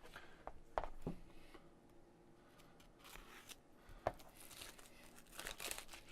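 Faint handling of a model kit's packaging: a few light clicks and knocks, then crinkling and tearing sounds near the end.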